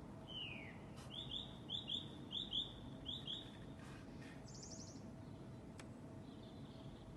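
A songbird singing: a quick run of short, falling whistled notes, then a brief high trill, over a faint outdoor background.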